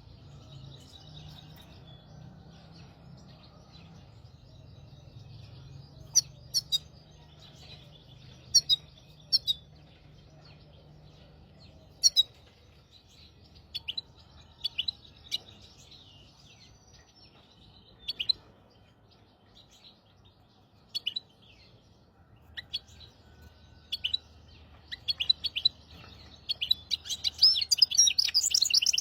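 Hybrid (mule) cage finch singing: scattered short, sharp chirps for most of the stretch, then a fast, continuous run of song near the end that is the loudest part. A faint low hum lies underneath.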